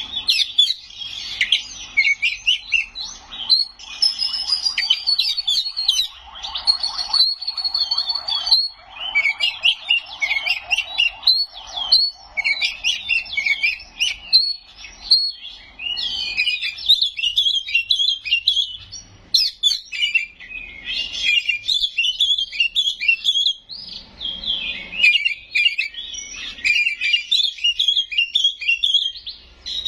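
Oriental magpie-robin (kacer) in full song: a loud, continuous stream of rapid, varied whistled phrases with a few held whistles, packed with mimicked calls of other birds.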